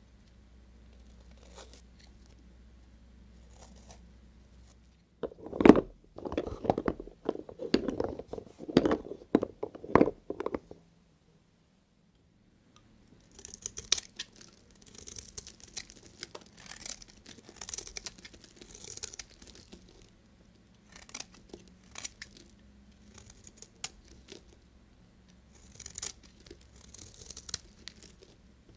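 Knife cutting through bar soap, crunching and scraping. A run of loud, crunchy cuts about five seconds in, a pause of about two seconds, then lighter, crisper strokes.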